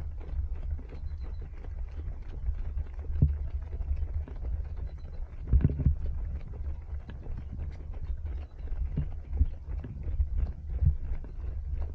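Wind rumbling over a body-worn action camera's microphone while running, with the dull, uneven thuds of footfalls and jostling of the camera. A few stronger thumps stand out.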